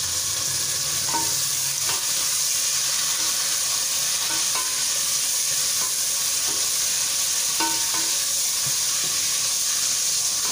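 Oil sizzling steadily in a pot of browning onions, whole garam masala and ginger-garlic paste as they are stirred, with a spoon ticking against the pot now and then.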